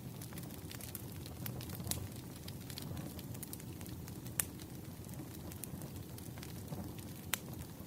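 Wood fire crackling: a steady low rumble of burning with scattered sharp snaps, and a few louder pops about two, four and a half, and seven and a half seconds in.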